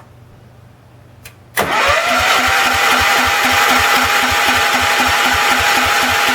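Kohler K321 single-cylinder 14 hp engine of a Wheel Horse GT-14 garden tractor starting up: after a quiet moment it comes to life suddenly about a second and a half in, its pitch rises briefly and it settles into a steady run with a regular pulsing.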